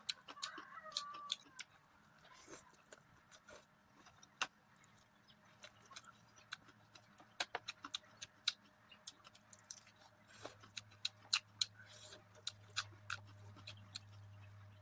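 Close-miked eating sounds: wet mouth clicks and smacks of chewing food, irregular and many. A brief animal call sounds in the first second or so, and a low steady hum comes in about two-thirds of the way through.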